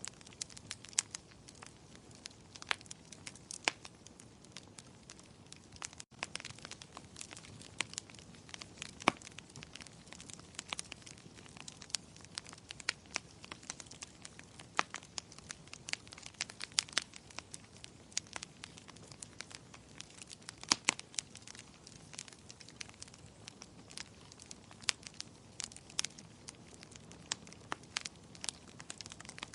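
Wood fire crackling in a fireplace: many sharp pops and snaps at irregular intervals over a soft steady hiss, with a split-second dropout about six seconds in.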